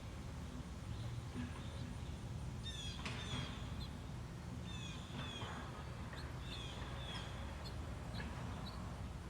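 Small songbirds at a feeder chirping in short clusters of quick, high, downward-sweeping notes, over a steady low rumble.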